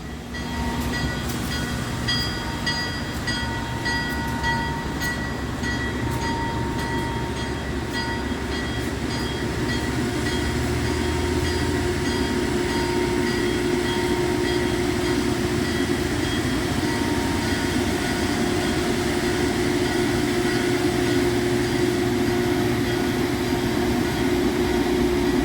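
Train moving slowly on the tracks: the locomotive's engine running and gradually getting louder, with high steady ringing tones in the first half.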